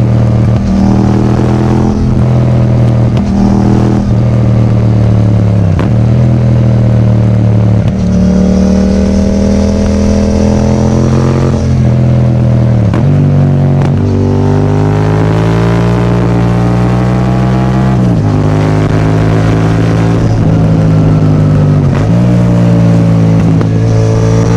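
Yamaha MT-07's 689 cc parallel-twin engine breathing through an Akrapovic titanium full exhaust, ridden hard: the engine note climbs under throttle and drops back sharply at each gear change, repeating through the gears, with shorter quick pulls at the start and longer climbs later.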